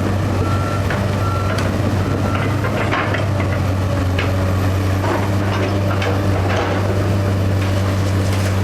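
Heavy demolition machine's engine running steadily under load, with a backup alarm beeping and scattered sharp cracks and snaps of the house's timber being broken apart.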